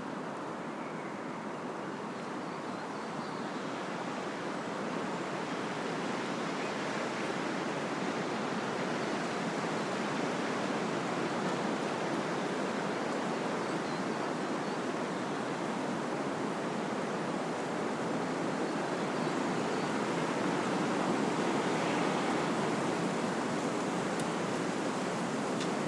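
Wind blowing through trees, a steady rushing of leaves and branches that slowly swells louder through the middle and stays up near the end.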